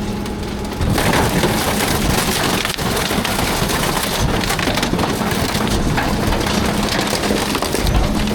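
Garbage truck compactor crushing bulky waste, with wood cracking and splintering under the packer blade, over a steady hum from the truck. The crunching gets louder about a second in.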